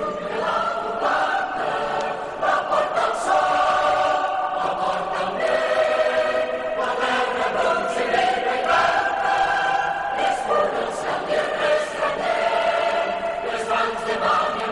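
Many voices singing together in chorus, holding long sung notes at a steady level.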